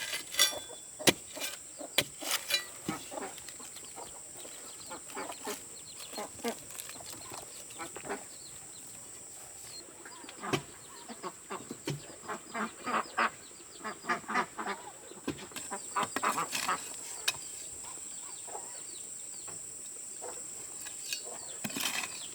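Farm poultry calling in a run of short repeated calls, busiest in the middle of the stretch, with a few scattered knocks in the first seconds.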